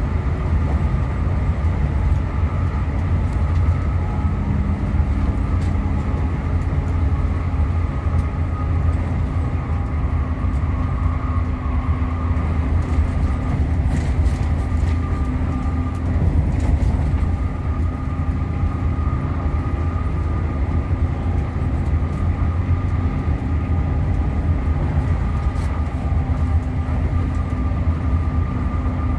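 Hino RM 280-powered coach on the move: a steady low rumble of engine and road noise with a faint whine.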